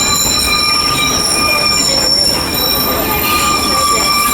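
Narrow-gauge (30-inch) tourist train's steel wheels squealing on the rails: several steady high-pitched squeal tones held over the rumble of the rolling cars.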